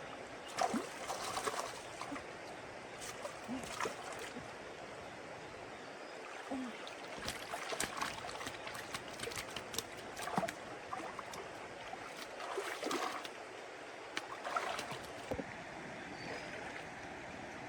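Running water with irregular short splashes every second or two.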